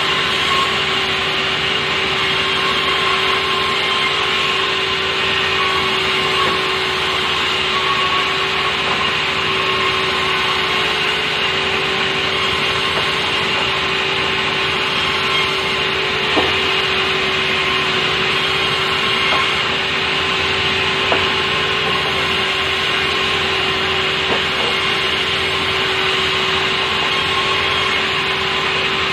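Sawmill saw running steadily as it cuts softwood timber, a continuous machine whine, with a few light knocks in the second half.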